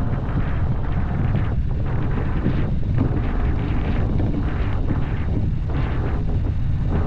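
Vehicle driving with heavy wind noise on the microphone: a steady low rumble overlaid by irregular rushing gusts.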